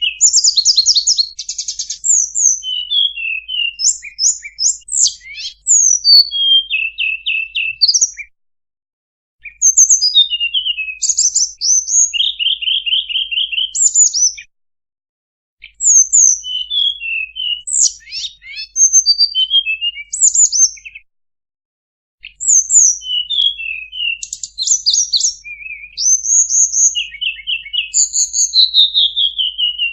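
Recorded song of a tledekan, played as a bird-trapping lure call: rapid high chirps, short trills and falling notes in bouts of several seconds, broken by three short pauses.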